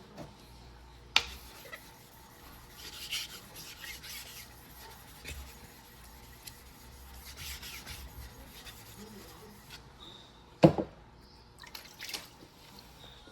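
A yanagiba (sashimi knife) blade being rubbed by hand across a wet whetstone in a few rasping strokes, with a sharp click about a second in and a loud knock near the end.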